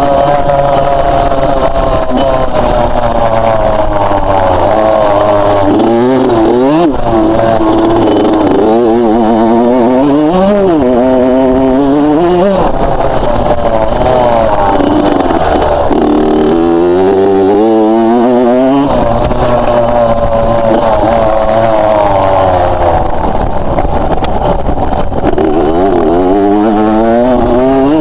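Loud two-stroke motocross bike engine revving up and dropping back again and again, its pitch climbing in repeated sweeps as the throttle opens and closes.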